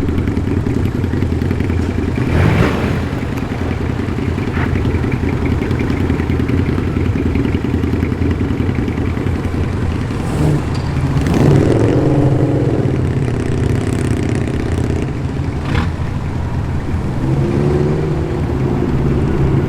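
Engines of performance cars rumbling as they roll in at low speed. About halfway through one engine gets louder, its pitch rising and then falling as it revs and passes. There are a couple of sharp knocks.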